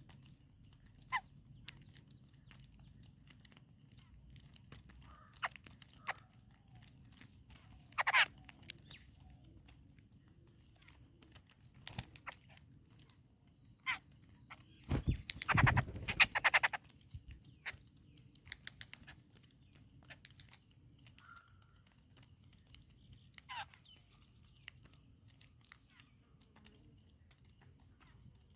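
Birds calling at a feeding spot: short, scattered calls, several dropping in pitch, spread across several seconds with pauses between them. About halfway through there is a louder burst of noise lasting a second or two.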